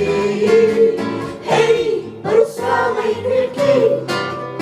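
Voices singing a song's refrain to guitar accompaniment, with long held notes.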